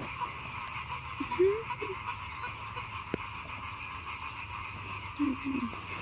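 Steady chorus of frogs croaking, with a fine pulsing texture. Two brief low wavering sounds stand out about a second in and again near the end, and there is a single click midway.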